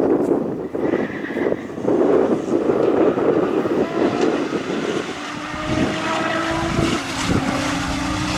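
Twin-turbo Lamborghini Huracán V10 engine running in rough, uneven pulses. About five seconds in it settles into a steadier engine note that rises in pitch.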